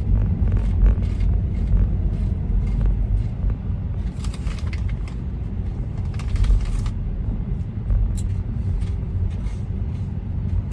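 Road noise heard inside a moving car's cabin: a steady low rumble of tyres and engine, with two brief swells of hiss about four and six seconds in.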